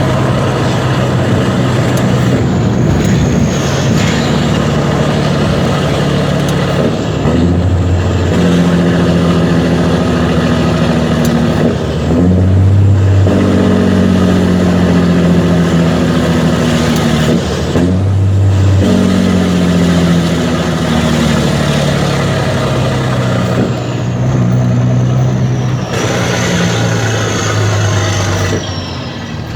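Mercedes-Benz Actros 2636's V6 diesel engine running loud through an open straight exhaust. The note steps up and drops off briefly about every five or six seconds, with a faint high whistle near the start and again near the end.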